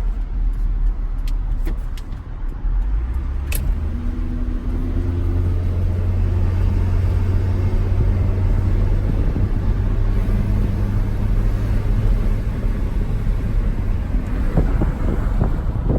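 2010 Ford Ranger pickup heard from inside the cab while driving: a steady low engine and road rumble, with the engine note rising as the truck speeds up about four seconds in, then holding steady. A few light clicks come in the first few seconds.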